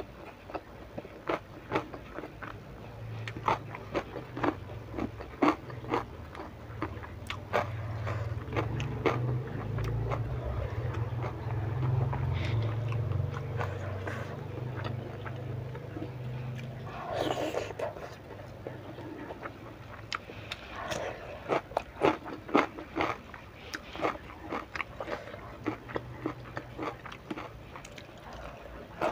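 Close-up wet chewing and lip-smacking of fried tempeh in chili sambal with rice, eaten by hand, with many short mouth clicks and crunches. A low hum runs underneath through the middle, and there is one short breathy sound about halfway.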